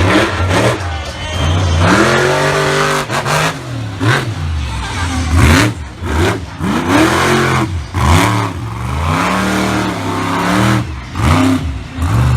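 Monster truck engine revving hard, its pitch climbing and dropping again and again as the throttle is worked.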